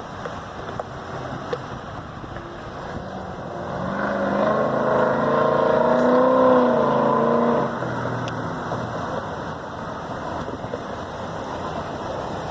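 A vehicle driving past on the road: its engine grows louder from about four seconds in and drops away near eight seconds, over steady traffic and wind noise.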